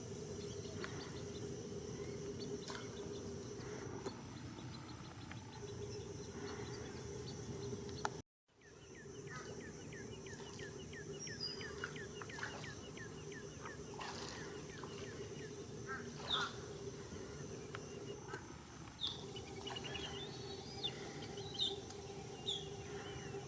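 Several wild birds calling: scattered short chirps, and a run of quick falling notes about ten seconds in, over a steady low hum. The sound drops out completely for a moment about eight seconds in.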